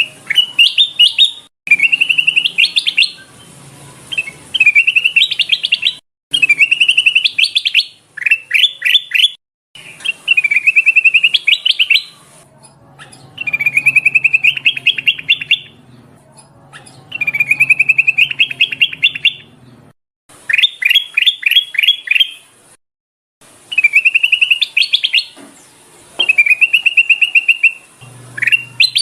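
Kutilang emas, a bulbul, singing loud repeated phrases of quick rising, chattering notes about every two seconds with short pauses between. This is a lure call, which the uploader presents as a female calling a male.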